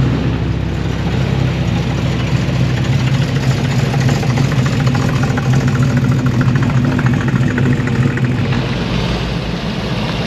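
A car engine running steadily at low revs, a loud, even rumble that drops away about eight seconds in.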